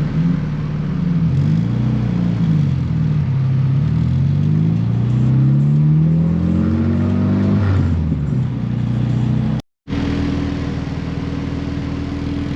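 A car engine accelerating, its pitch climbing and falling back several times as it pulls through the gears. After a brief cut about ten seconds in, the engine holds a steady drone.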